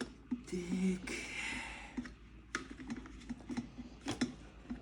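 Scattered small clicks and taps from handling the plastic parts of an electric kettle being taken apart, with a brief scraping rustle about a second in.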